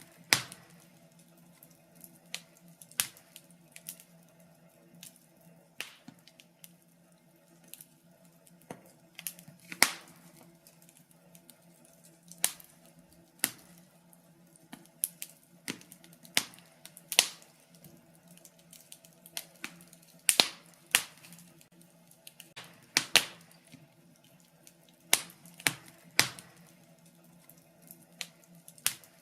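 Wood fire in a fireplace crackling, with sharp, irregular pops one to a few seconds apart over a faint steady hum.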